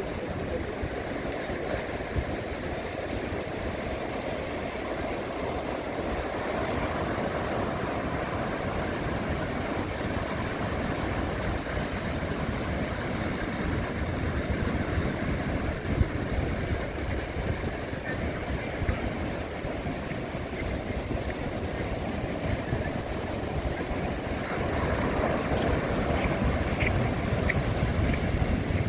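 Beach ambience: steady wash of surf with wind buffeting the microphone, growing a little louder near the end.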